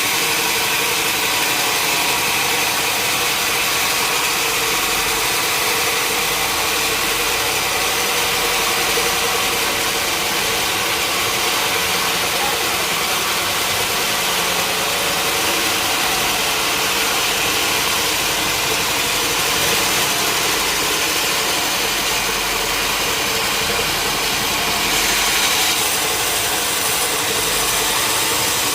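Sawmill machinery running steadily: a steady machine hum with several fixed tones over a constant hiss. The upper hiss changes a little about 25 seconds in.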